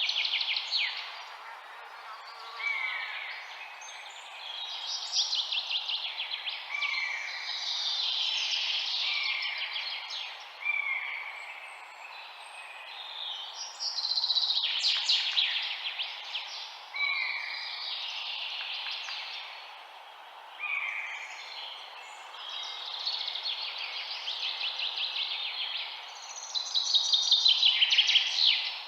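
Several songbirds singing over one another in phrases of rapid trills and sweeping chirps every second or two, over a steady background rush.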